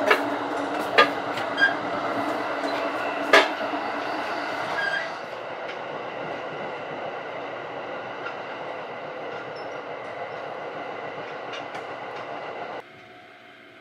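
Sunrise Izumo 285-series sleeper train running, heard from the gangway between cars: a steady rumble with four sharp metallic clacks in the first few seconds. It turns quieter and steadier after about five seconds and drops suddenly to a faint hum near the end.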